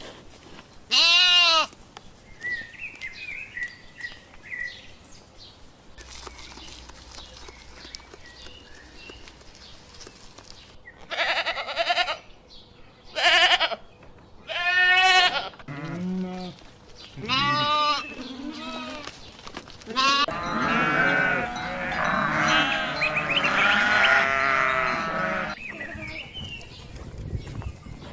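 Kittens meowing: single meows spaced a few seconds apart, then several kittens meowing over one another for about six seconds near the end.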